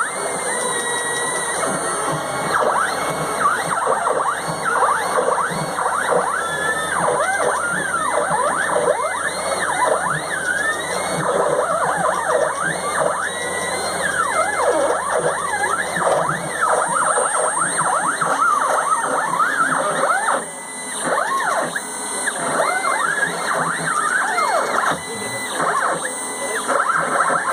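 Stepper motors of a homemade three-axis CNC machine whining as the axes move together, the pitch sweeping up and down over and over as the motors speed up and slow down. A steady high whine runs underneath.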